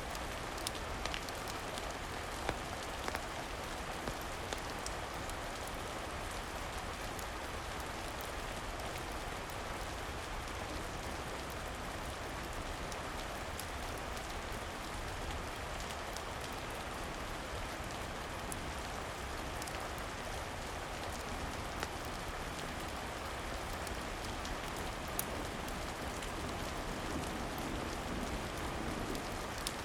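Steady rain falling, an even hiss of water with scattered faint ticks and crackles.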